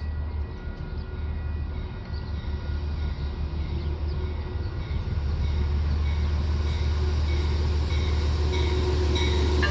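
Train running on the tracks, a low rumble that grows louder over the first five seconds or so and then holds steady, with faint steady high-pitched tones above it.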